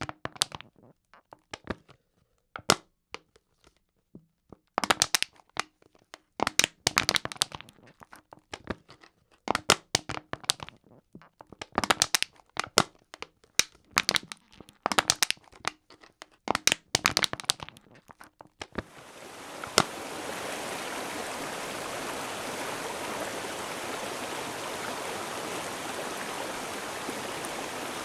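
Thin plastic water bottle being crushed: sharp crackles and crinkles come in clusters for about eighteen seconds. Then a steady rushing noise takes over and runs on.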